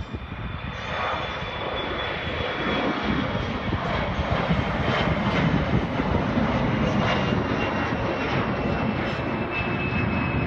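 Airliner's engines passing close by, swelling over the first two seconds and then holding a steady loud rush with a high whine on top.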